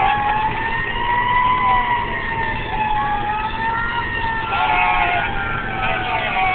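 Fire engine siren wailing, its pitch slowly rising and falling, over the steady rumble of the truck's engine. About two-thirds of the way through, further wavering siren tones join in.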